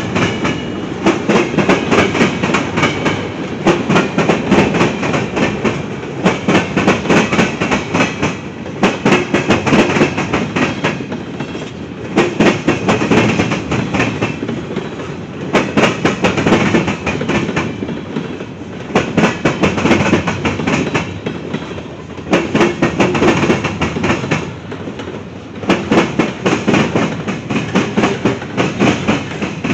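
Freight train cars rolling past, wheels clattering over rail joints in repeating groups every few seconds, with a continuous rumble.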